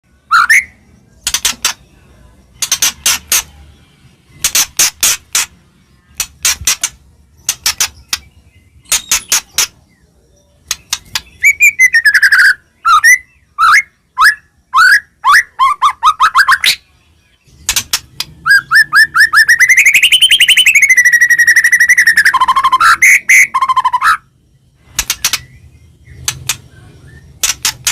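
A songbird singing loudly: bursts of short sharp chip notes, then a fast run of slurred whistles about halfway through, and a long warbling trill that rises and falls before the chips return.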